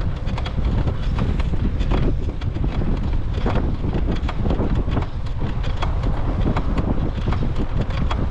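Wind buffeting the microphone of a camera riding on a moving bicycle: a steady low rumble with frequent small irregular clicks and rattles.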